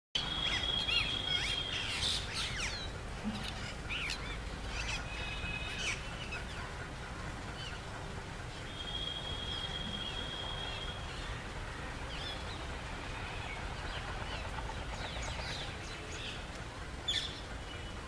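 Birds calling: many short, sharp chirps, busiest in the first few seconds and again in a burst near the end, mixed with a few long whistled notes held at one pitch. A steady low background rumble runs underneath.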